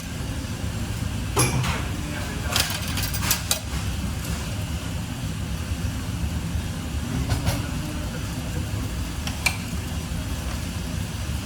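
Several sharp clinks and knocks, spaced irregularly, over a steady low rumble.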